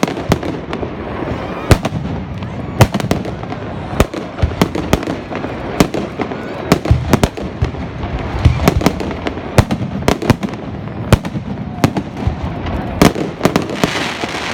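Fireworks going off: many sharp bangs at irregular intervals, about one or two a second, over a continuous rumble and crackle of further bursts.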